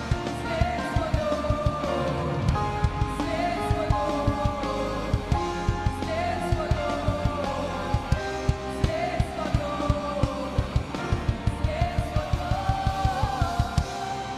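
Worship band music: a full band with drum kit and electric guitar plays a fast, driving beat, the drum hits growing busier near the end before the drums drop out.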